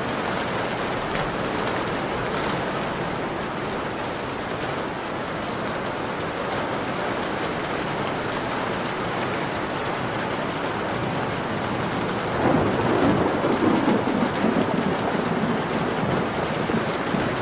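Steady rain pattering on a window, with a long rumble of thunder rolling in about twelve seconds in.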